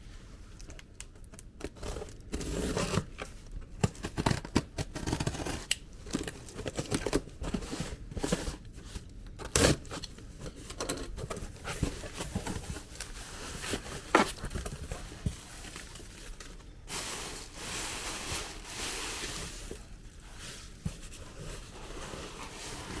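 A mail package being unpacked by hand: tape and wrapping torn, packing material rustling and crinkling, with a few sharp knocks along the way.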